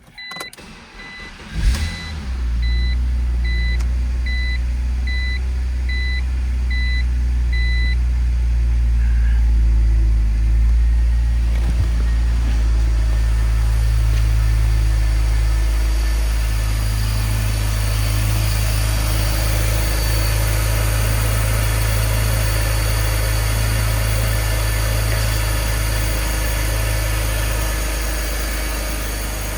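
A 2004 BMW Z4's 2.0-litre engine is cranked and catches about two seconds in, then settles into a steady idle. A warning chime beeps repeatedly for the first several seconds of the idle.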